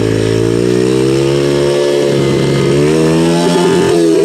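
Yamaha TT-R110 dirt bike's small four-stroke single-cylinder engine running under way, its pitch dipping and rising with the throttle, climbing again past the middle.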